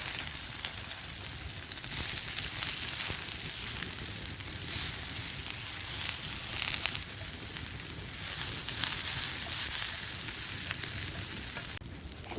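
Food frying in hot oil on a campfire grill: a steady sizzle with small pops that swells and eases, and drops off suddenly near the end.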